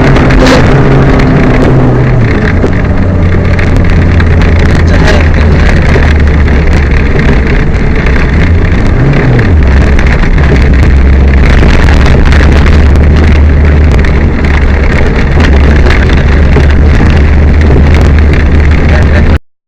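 Peugeot 205 rally car's engine under load on a stage, with loud wind and road noise. The title calls the car misfiring. The engine note drops about two seconds in and dips and climbs again near the middle. The sound cuts off suddenly near the end.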